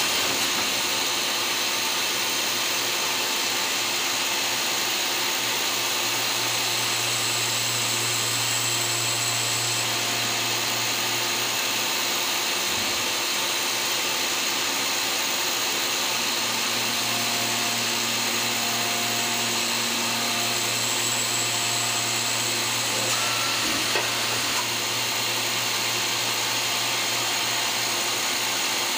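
Citizen M32VIII Swiss-type CNC lathe running: a steady machining hiss over a constant low hum, with faint high whining tones that come and go.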